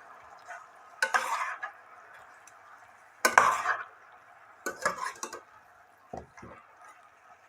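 A utensil scraping and knocking in a cooking pot as raw chicken pieces and spices are stirred together: four short separate strokes over a faint steady hiss.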